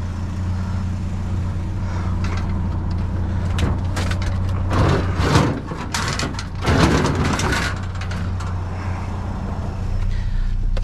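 Vehicle engine idling with a steady low hum. Two louder bouts of scraping and clattering come about five and seven seconds in, as a TV set is handled and pulled from a dumpster.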